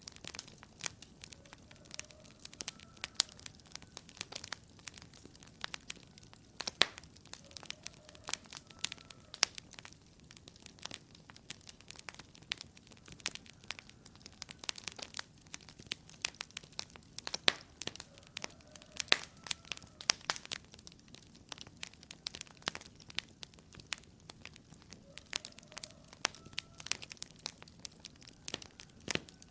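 Wood fire crackling in a fireplace: irregular sharp snaps and pops, many a second, over a soft steady hiss, with a faint short whistling note a few times.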